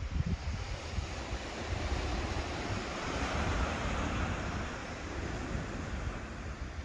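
Sea waves washing onto a shingle beach below a cliff, one wave swelling up and fading away about halfway through, with wind gusting on the microphone.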